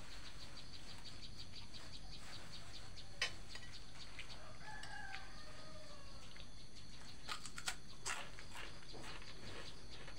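A rooster crowing faintly once, about halfway through, its call sliding slightly down in pitch over a steady background hiss. A few sharp clicks come before and after it.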